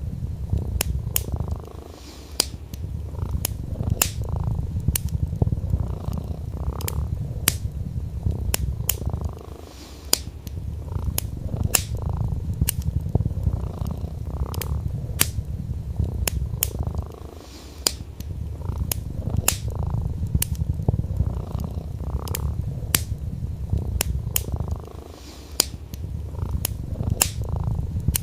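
A cat purring steadily in a low rumble that eases off briefly about every seven or eight seconds, over the crackle of a wood fire burning in a fireplace: sharp, irregular pops, one or two a second.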